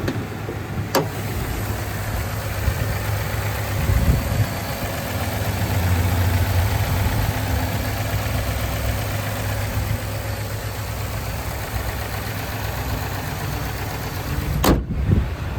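Work truck's engine idling steadily with a low hum, with a sharp click about a second in and another near the end.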